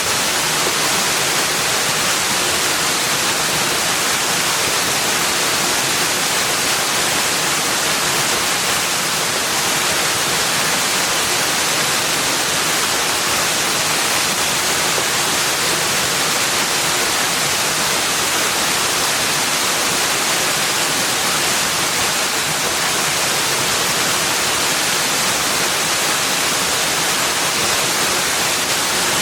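Steady, even rush of flowing water, holding the same level throughout with no separate splashes, calls or other events.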